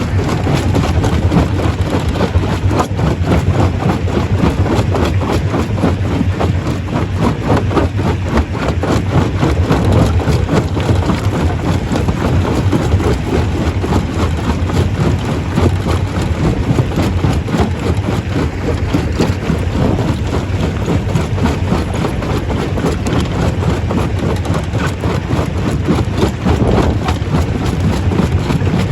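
Stone crusher running under load, a loud steady machine din with dense, rapid rattling of rock being broken.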